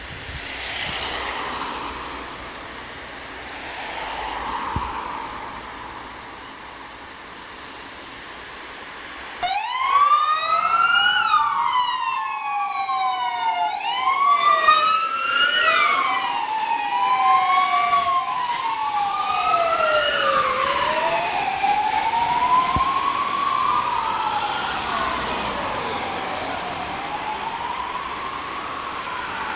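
Fire engines' diesel engines rumbling and swelling twice. About ten seconds in, their sirens switch on suddenly: two wailing sirens sweeping up and down out of step with each other, easing slightly toward the end.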